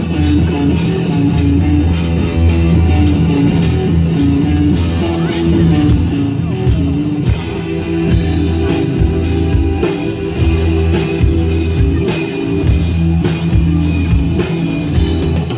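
Live band playing the instrumental intro of a song, with a steady bass line and drums under a melody. Sharp ticks sound about twice a second through the first half and drop out about halfway through.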